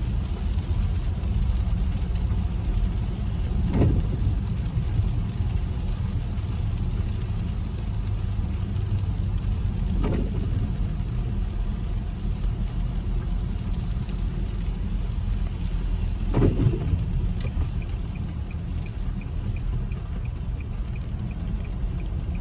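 Steady low rumble of road and engine noise heard inside a moving car's cabin on a wet road, with a short swish about every six seconds and a faint, quick regular ticking near the end.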